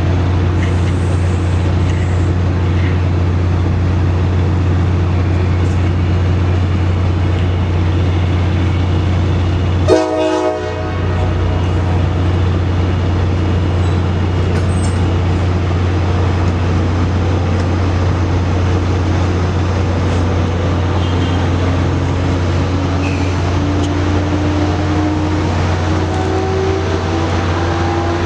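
Amtrak train running past: a steady low rumble, a brief sharp blast about ten seconds in, and a slowly rising tone near the end.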